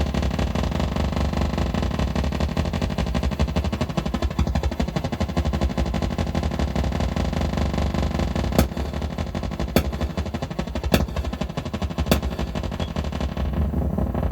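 Eurorack modular synthesizer playing a dense, rapid, rattling noise pulse over a heavy bass drone. In the second half, four sharp clicks come at an even pace, about one every second and a bit.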